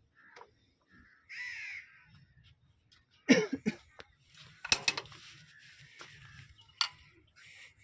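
A harsh bird call about a second and a half in, then a few loud, sharp knocks in the middle and another near the end.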